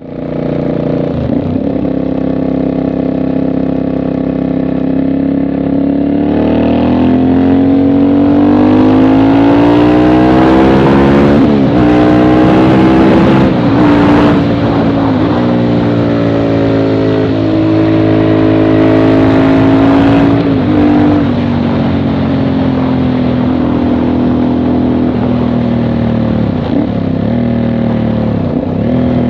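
Aprilia Shiver 750's V-twin engine running through an aftermarket Dominator exhaust. It idles steadily for about six seconds, then the revs climb slowly and hold high with a few quick blips. The revs then drop back, climb again, and ease gradually back down.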